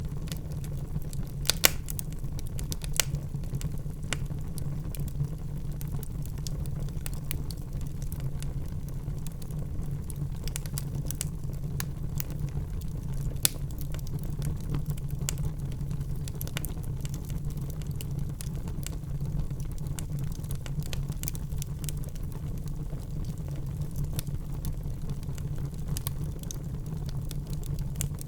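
Fireplace fire crackling: a steady low rumble with scattered sharp crackles and pops, the loudest pops about a second and a half and three seconds in, and another near the middle.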